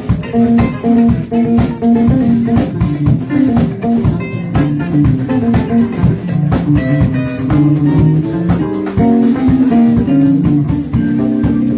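Live rock band playing: electric guitar over bass and drum kit.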